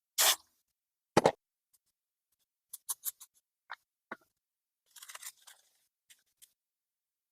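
Small parts being handled on a workbench: a brief hiss at the start, a sharp knock about a second in, then scattered light clicks and a short rattle.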